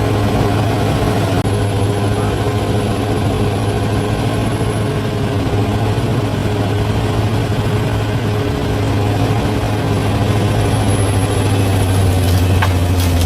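Large bulldozer's diesel engine running steadily with a deep hum, with a few sharp metallic clanks near the end.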